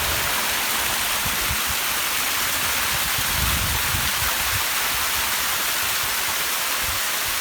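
Rushing water, a steady even hiss, with irregular low rumbles underneath.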